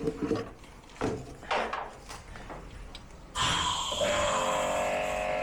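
Knocks and rubbing from parts being handled on the washing machine. About three and a half seconds in, a steady machine sound with a high whine starts suddenly and keeps running.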